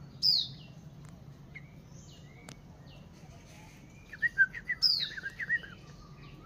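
Bulbuls calling: a loud, sharp call falling in pitch right at the start and again about five seconds in, with a quick run of short chirps just before the second one and fainter calls in between.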